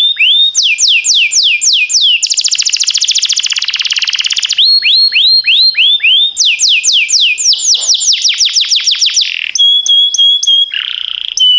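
Domestic canary singing a long song. It runs through rapid series of repeated falling whistled notes, changing phrase every second or two, with a very fast buzzy trill about two seconds in and short held whistles near the end.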